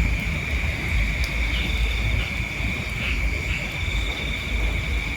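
Outdoor insect chorus: crickets keep up a steady high-pitched drone, with short calls repeating in pairs every second or two. A low rumble sits under it all.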